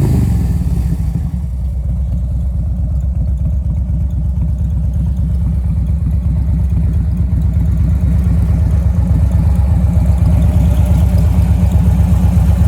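2008 Harley-Davidson FLHX Street Glide's 1580 cc V-twin idling through Vance & Hines 4-inch mufflers, a steady low pulsing beat that grows slightly louder toward the end.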